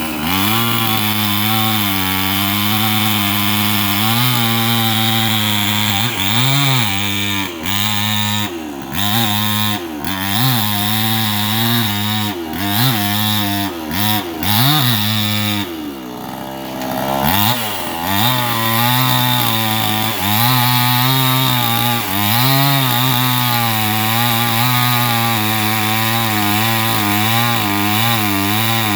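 Two-stroke chainsaw cutting a tree, its engine speed rising and falling as the chain bites into the wood. About halfway through it drops briefly to a lower idle, then revs up and cuts on.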